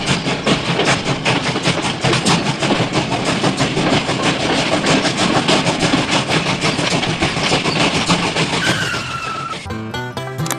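Loud, continuous dense clattering and rattling, with a short falling whistle-like tone near the end; plucked-string, banjo-style music starts just before the end.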